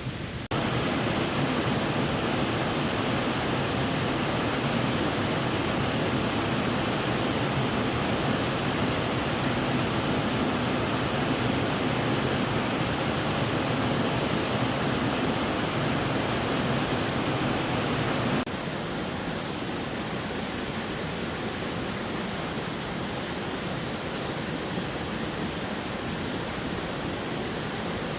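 Steady rushing water, a dense even roar. It jumps louder about half a second in and steps down somewhat about two-thirds of the way through.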